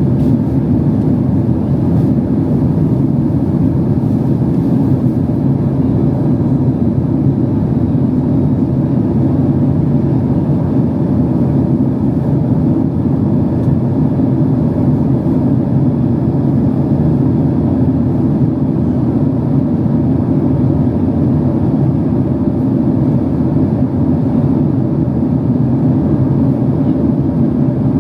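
Steady low drone of engine and airflow noise inside the passenger cabin of a Boeing 767-300 in flight, unchanging throughout.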